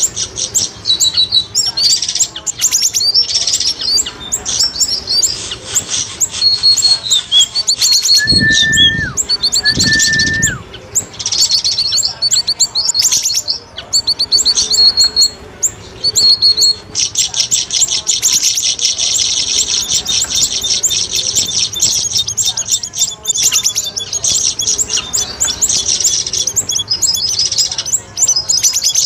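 Recorded lure calls of cucak rawis and siri-siri birds: rapid high chirps and trills, repeated over and over. Two short flat whistles come about eight and ten seconds in, and from about seventeen seconds on the trilling runs dense and unbroken.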